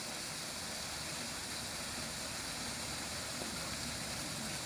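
Truck engine running steadily, a low rumble under an even hiss.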